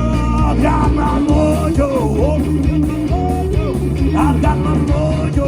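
Live rock band playing a blues-rock number, with steady bass notes underneath and a lead line that slides and bends in pitch.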